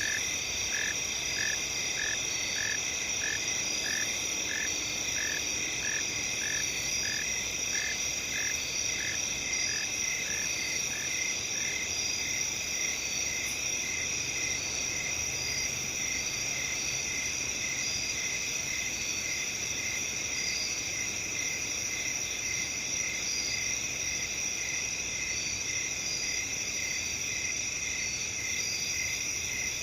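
Steady night chorus of crickets and other insects, a continuous high chirring, with a lower repeated chirp about once or twice a second that drops out about twelve seconds in.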